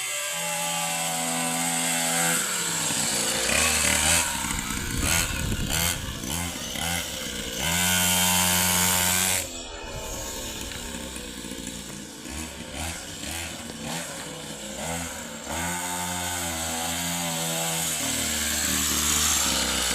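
Motocross bike engine revving up and down as it is ridden, with a stretch held at high revs about eight seconds in that drops off suddenly.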